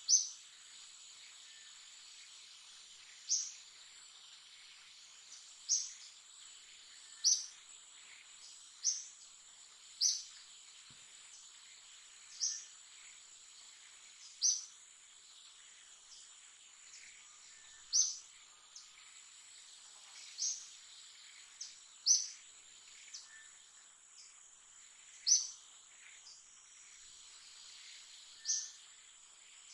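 Steady high-pitched drone of insects, with a short, sharp, falling chirp repeating every one to three seconds over it.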